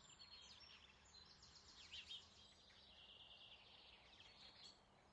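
Faint birdsong: several small songbirds chirping and trilling, overlapping, a little louder about two seconds in, over a quiet background hiss.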